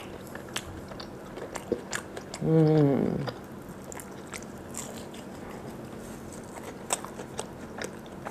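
Close-up chewing of a mouthful of pan-fried hotteok, with many small sharp mouth clicks and crunches. About two and a half seconds in comes one falling, closed-mouth "mmh" of pleasure.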